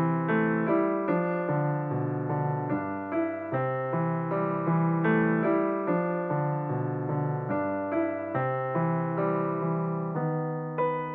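Background piano music: a slow, gentle melody of single struck notes over a sustained bass, each note fading after it is played.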